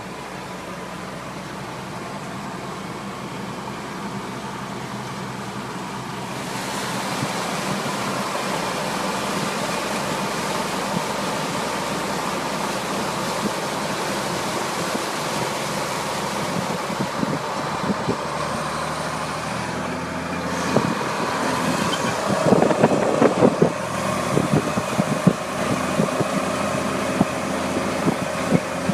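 High-water truck running steadily down the road, engine hum under road and wind noise that grows louder about a quarter of the way in. In the last third, irregular rushing bursts and knocks join in.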